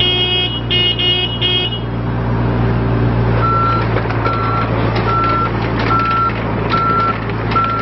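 John Deere 27D mini excavator's diesel engine running steadily. Early on a short burst of higher, pulsing tones sounds three times; from about three and a half seconds in, a warning alarm beeps at a steady pitch about every 0.8 seconds, typical of the travel alarm while the machine tracks.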